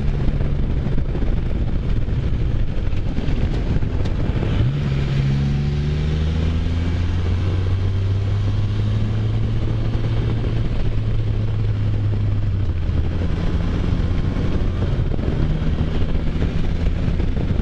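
Can-Am Spyder F3's three-cylinder engine running under way, with wind noise. The engine pitch rises quickly about four and a half seconds in, holds steady, then drops about thirteen seconds in.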